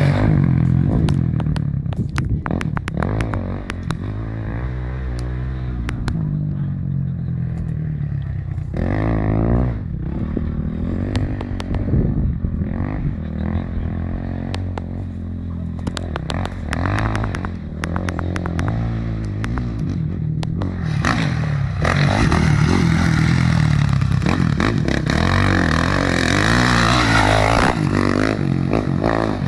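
Motocross bike engine running and revving as it rides the track, with many sharp clicks and knocks. The engine grows louder and brighter over the last third.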